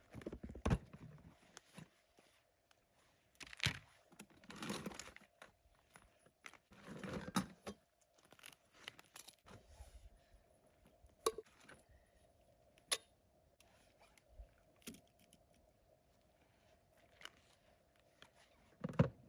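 Intermittent handling noises: scattered clicks and clinks with short stretches of rustling and crunching, as gear is handled, over a faint steady hum.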